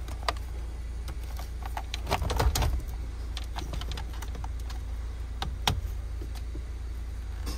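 2007 Honda Civic engine idling steadily, with clicks and knocks as the AC control connector is plugged back in and the AC compressor clutch engages.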